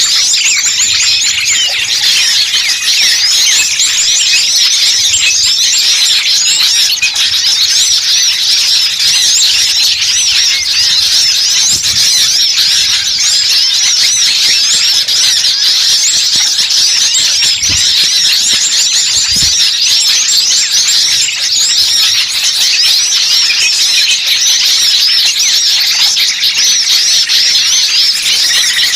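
Dense, noisy chorus of many small songbirds chirping and twittering at once, a continuous mass of rapid high-pitched calls with no pauses. It is a bird-lure recording of agitated small birds, played to attract wild birds.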